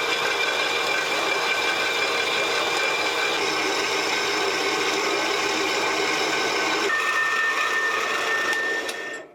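Horizontal metal bandsaw running and cutting through steel, a steady grinding noise with a high whine whose pitch shifts a couple of times. The blade is steadied and not vibrating, so it cuts straight. The sound stops shortly before the end.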